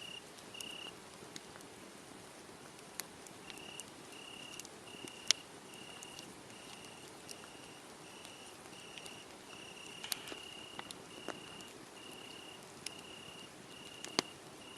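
Crickets chirping about twice a second, pausing briefly about a second in, over the steady hiss and scattered sharp pops and crackles of a wood fire.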